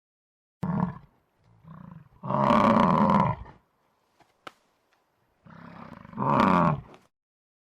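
A large animal roaring: a short call about half a second in, then two loud roars of about a second each, about two seconds in and about six seconds in. The second roar rises out of a quieter lead-in.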